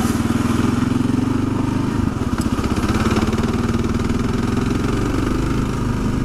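Kawasaki KLR650's single-cylinder four-stroke engine running at a steady, even pace as the motorcycle rides along.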